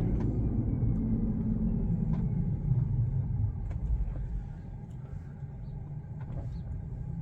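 Road and tyre rumble inside an electric car's cabin as it slows for a stop sign. The rumble drops off about four and a half seconds in as the car comes nearly to a stop.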